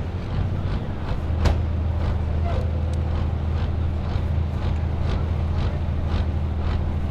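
Farm tractor's diesel engine running steadily at low speed, with a regular beat of about two to three pulses a second and one sharp click about a second and a half in.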